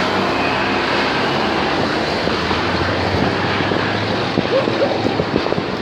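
Motorcycle engine running under heavy wind noise on the microphone.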